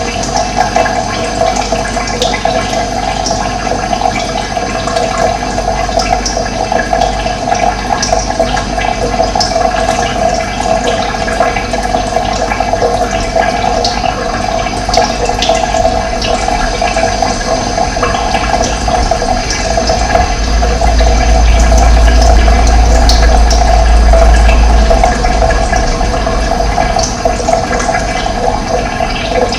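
Running water flowing and splashing in a steady rush, with a low rumble that swells for a few seconds past the middle.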